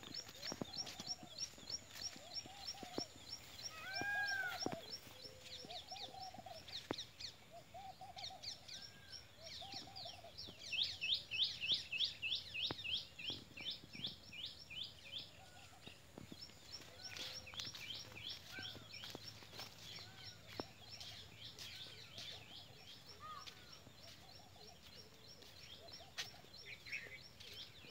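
Several birds calling in scrubland: one gives fast runs of high, rapid chirps, loudest about ten to fourteen seconds in, while others repeat short lower notes, with occasional clicks of footsteps and brushing through undergrowth.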